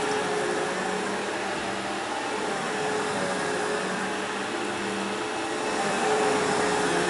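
Steady whirring hum of an electric appliance motor, running evenly.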